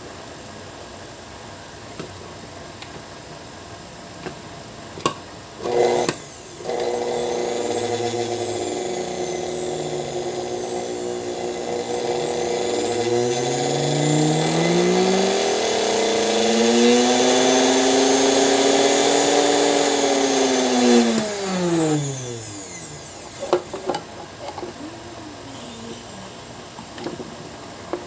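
A 220 V AC sewing-machine motor run through a speed controller. After a few clicks it starts and runs, then its pitch climbs steadily as the speed is turned up, holds at the top, and drops away as it is slowed and stops.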